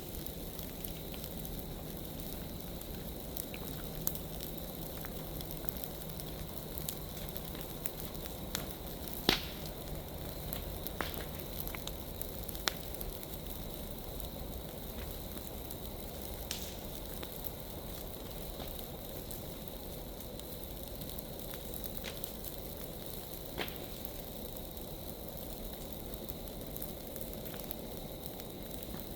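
Big pile of dry leaves burning, a steady fire rush with scattered sharp crackles and pops; the loudest pop comes about nine seconds in.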